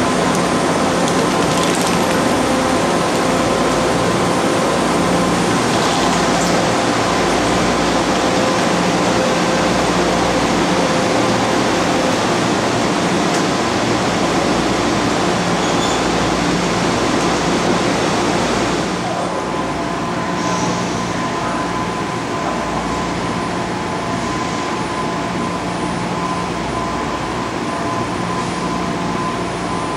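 A BART train standing at a station platform with its doors open: a steady hum of its onboard equipment, with a few faint steady tones over a broad rumble. The sound becomes a little quieter about two-thirds of the way through.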